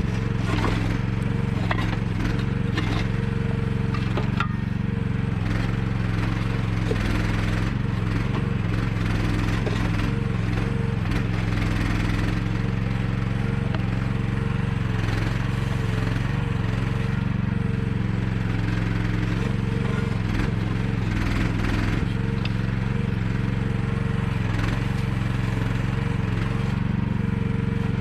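AGT QH12R mini excavator's engine running steadily under work, with a higher tone that comes and goes and scattered knocks and scrapes.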